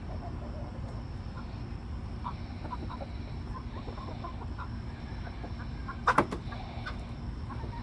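Chickens clucking softly and intermittently over a steady low rumble. About six seconds in comes a brief, much louder double sound, two sharp hits in quick succession.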